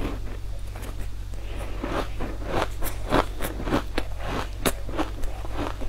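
Close-miked chewing of crunchy sweet food: a run of sharp crunches and crackles, sparse at first, then quicker and louder from about two seconds in.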